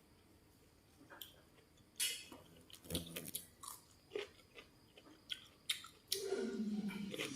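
Close-up biting and chewing of crisp food: a sharp crunch about two seconds in, then a run of smaller crunches and mouth clicks. Background music comes in near the end.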